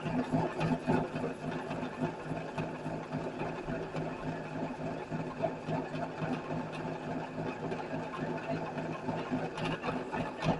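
A small electric machine motor running steadily, with a fast rattling flutter over a constant hum.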